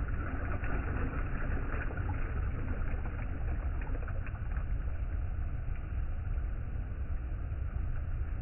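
Steady riverside ambience: a low rumble with a hiss of moving water and faint small splashes or ticks, busier in the first few seconds.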